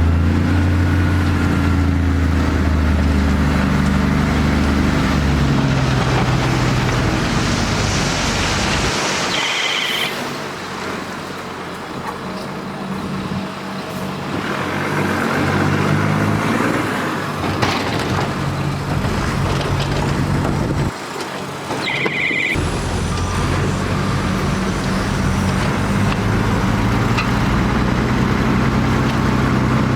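Heavy diesel engines of earthmoving machinery at work, a bulldozer and dump trucks, running and changing speed as they are worked. A short high-pitched squeal cuts in twice, about ten and twenty-two seconds in.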